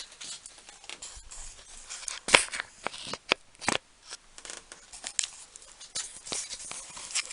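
Handling noise: a run of light clicks, scrapes and rustles, with a few sharper knocks between about two and four seconds in.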